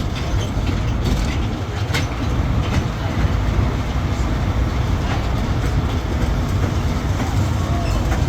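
Riding aboard a tourist road train: a steady low rumble of engine and road noise, with the carriages rattling and clicking now and then.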